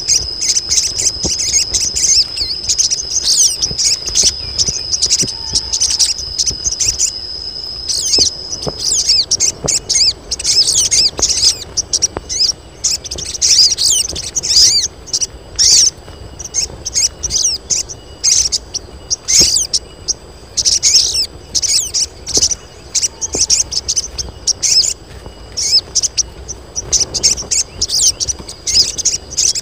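A group of female sogon sunbirds chattering with dense, rapid high-pitched chirps: the excited calls of hens in breeding condition that draw males to sing. A steady high whine runs under the chirps for about the first third.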